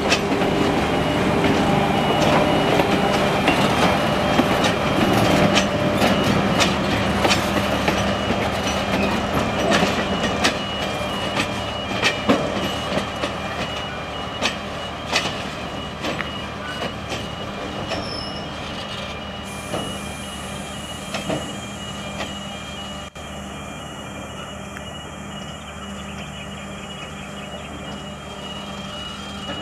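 A train running on the rails, with sharp wheel clicks and a little squeal, growing fainter as it moves away.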